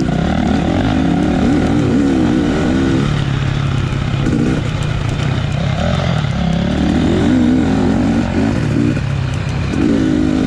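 Off-road racing dirt bike in the 250 class, heard from on board, running hard with its engine note rising and falling over and over as the throttle is worked through the course.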